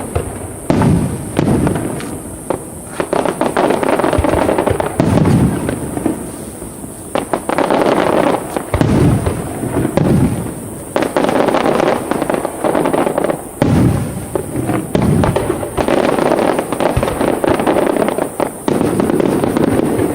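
Large aerial fireworks display: shells bursting in a continuous barrage, many sharp bangs in quick succession with the noise never dying away between them.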